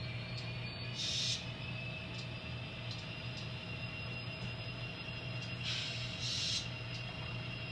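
N scale SD60 model locomotive running while it shoves a train, with a steady hum and a thin whine. Two short hissing bursts come through, one about a second in and a longer one around six seconds.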